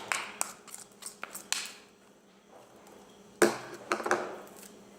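Handling noises: scattered knocks and clatter of a container being moved about, with one sharp, louder knock about three and a half seconds in.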